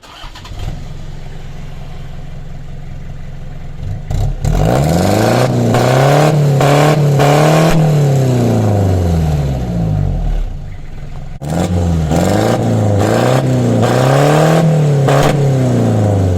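Turbo diesel engine idling steadily, then revved hard again and again, its pitch climbing and falling with each blip. A short drop back to idle splits the revving into two runs.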